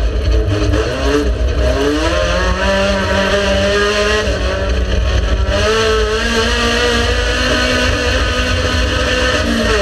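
Race car engine running hard, its pitch climbing and dropping several times as it accelerates and eases off, over a steady low rumble.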